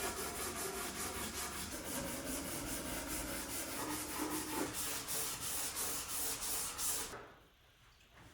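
Sandpaper rubbed by hand over a wooden cabinet surface in quick, even back-and-forth strokes, about four or five a second. It stops about seven seconds in.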